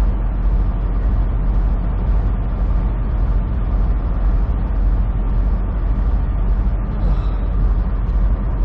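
Semi truck's diesel engine and road noise heard from inside the cab while cruising on the highway: a steady, deep drone that holds even throughout.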